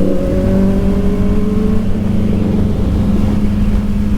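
Kawasaki Ninja ZX-4RR's inline-four engine running at fairly steady revs, its pitch creeping up a little over the first couple of seconds and then holding, over a steady rush of wind and road noise.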